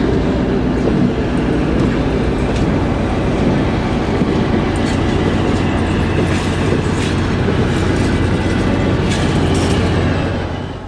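Passenger train cars rolling past at close range, wheels clicking over rail joints under a steady rumble. The sound falls away near the end as the last car clears.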